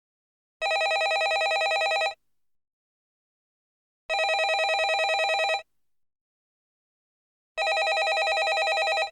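Landline telephone ringing with an electromechanical bell: three rings of about a second and a half, each a fast rattling trill, with about two seconds of silence between them.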